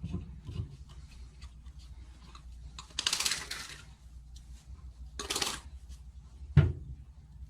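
Hands-on work and handling noises over a low steady hum: two short hissing, scraping bursts, the first about a second long, then a sharp knock near the end, with small clicks between.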